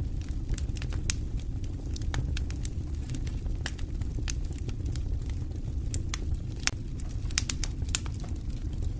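Wood fire in a fireplace crackling and popping over a steady low rumble, with a quick run of louder pops about seven and a half seconds in.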